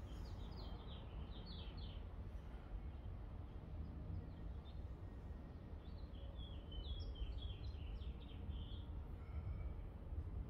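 A small songbird chirping in two quick runs of short high notes, one in the first couple of seconds and another from about six to nine seconds in, over a steady low outdoor rumble.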